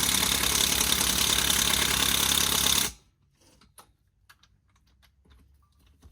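Impact wrench hammering on a wheel's lug nut in one burst of about three seconds, then stopping abruptly. It is not strong enough to break the lug loose. A few faint clicks and knocks follow.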